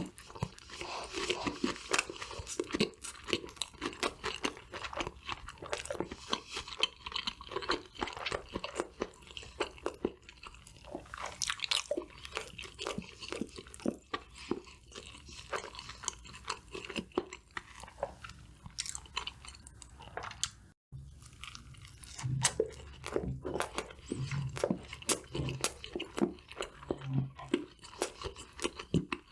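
Close-miked crunching and chewing of crispy fried food, a dense run of crackly bites and chews.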